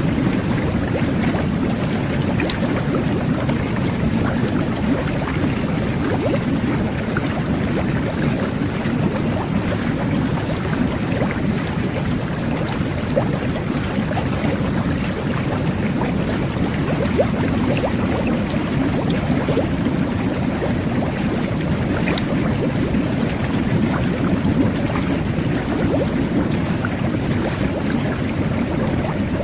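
Jet bath running: water churning and bubbling steadily in the tub, with small pops of bursting bubbles scattered through it.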